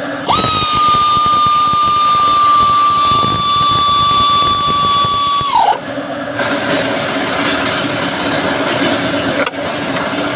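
A small power tool's high, steady whine, starting sharply and holding for about five seconds, then dropping in pitch as it winds down. A steady mechanical hum runs underneath.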